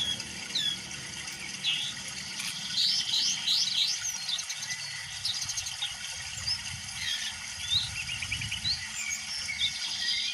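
Several songbirds chirping and singing, with short whistled notes and quick trills overlapping, over a low steady rush.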